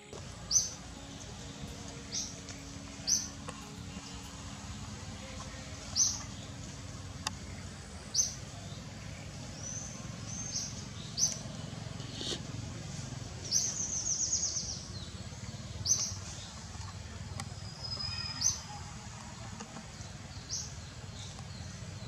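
A bird calling: short, high chirps repeated every second or two, with one longer trilled call about two-thirds of the way through, over a steady low background hum.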